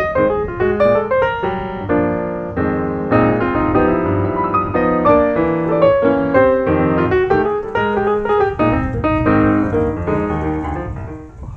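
Background piano music: a flowing solo piano piece with quick runs of notes, fading out near the end.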